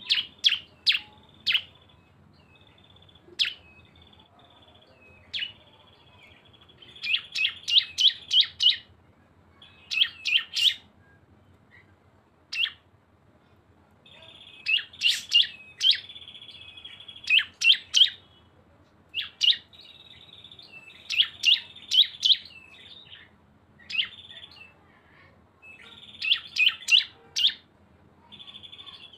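Small songbirds sold as ciblek or cisem in Indonesia (prinias) singing a 'bren' song. A buzzing trill is held for a second or two at a time and broken by runs of four or five loud, sharp chirps in quick succession. Two birds' songs are combined.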